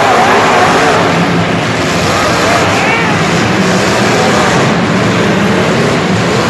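Several engines running and revving at once, loud and continuous, their pitches wavering up and down over one another, with voices mixed in.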